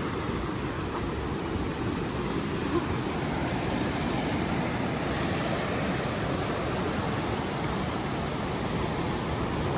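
Steady rushing noise of ocean surf and wind at the beach.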